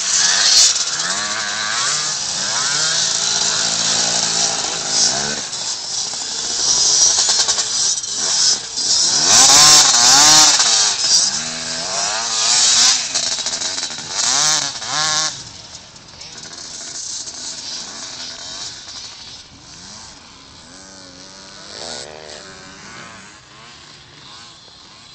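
Two-stroke KTM dirt bike engine revving up and down repeatedly, over wind noise on the microphone; it becomes much quieter a little past halfway.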